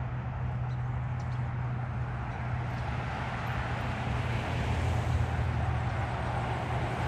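Freeway traffic noise: a steady low rumble with tyre hiss that swells a little about five seconds in.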